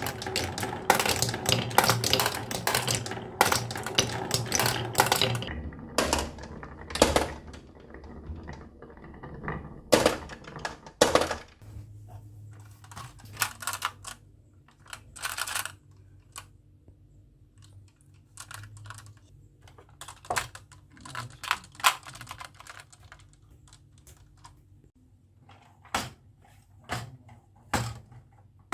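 Marbles clattering down a wooden marble run: a dense, fast rattle of clicks for the first several seconds, thinning into scattered single clacks and short rattles.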